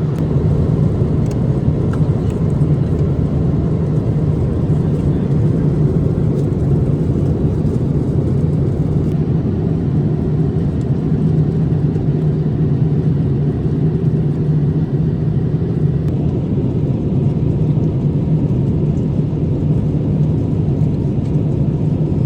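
Steady low rumble of airliner cabin noise in flight, the engine and airflow noise heard inside a Boeing 787-8 cabin.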